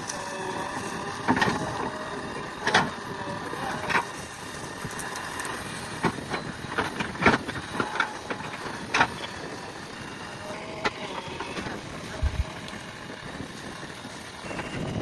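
Backhoe loader's diesel engine running steadily, with sharp knocks every few seconds.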